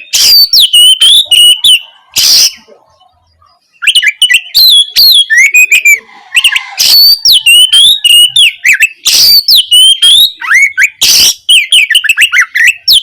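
Oriental magpie-robin (kacer) singing loudly: a rapid, varied string of whistled notes sliding up and down, broken by harsh rasping bursts. There is a short pause about a quarter of the way in.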